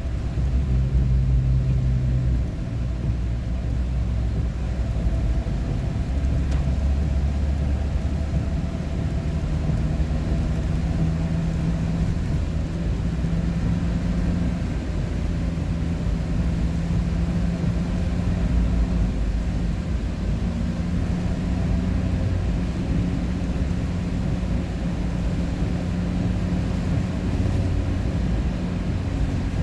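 A road vehicle driving at a steady pace: a continuous low drone of engine and road noise, with the engine note holding steady and shifting to a new pitch a few times.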